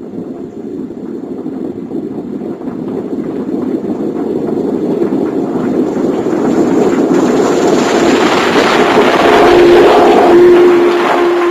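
Large farm harvest machine's diesel engine and machinery running, a steady rough drone that grows gradually louder, with a steady hum coming in about two-thirds of the way through.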